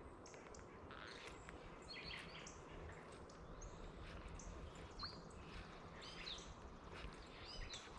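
Faint birds chirping, many short, scattered calls over a low, steady outdoor background hiss.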